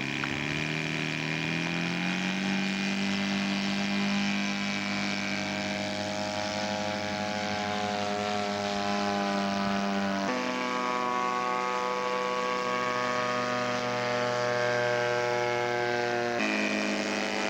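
Radio-control scale model airplane engine running in flight, its pitch climbing over the first couple of seconds and then holding steady. The pitch drops suddenly about ten seconds in and shifts again near the end.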